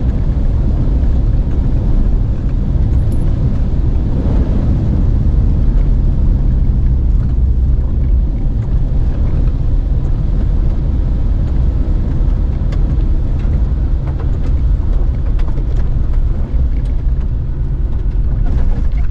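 Car engine and road noise: a steady low rumble that keeps the same level throughout.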